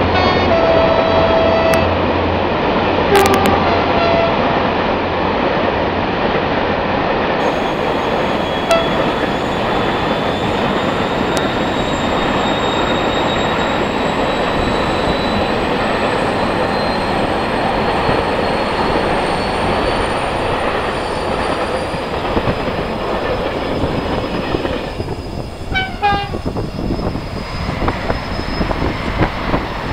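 Train running past close by: a continuous loud rumble of wheels on rails, with short horn toots in the first few seconds and again near the end, and a faint high whine slowly rising in pitch through the middle.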